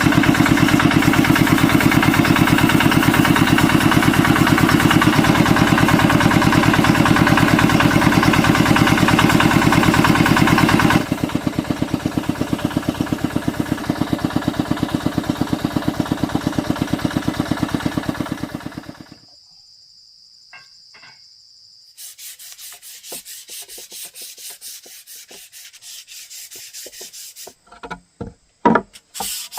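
A motor-driven woodworking machine runs steadily, drops in level about a third of the way in, then winds down and stops. After a short lull, regular rubbing strokes on wood follow, like sanding by hand.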